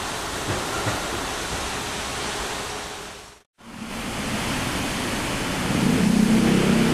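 Electric train running through the station, heard as a steady rushing noise. About three and a half seconds in, the sound drops to silence for a moment and comes back. Near the end a low hum from a train's motors comes in and grows louder.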